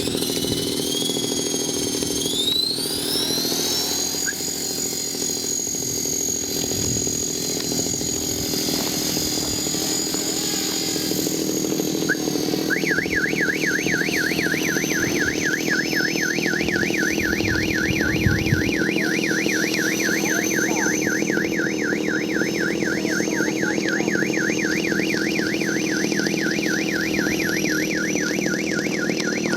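A 450-size electric RC helicopter's motor and rotor spool up with a rising whine over the first few seconds, then hold a steady high whine. About midway through, a fast, regular warbling electronic tone like an alarm joins in and keeps going.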